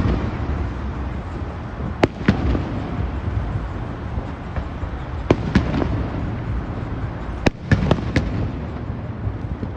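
Aerial fireworks bursting: sharp bangs in quick pairs and clusters every few seconds, over a steady low rumble.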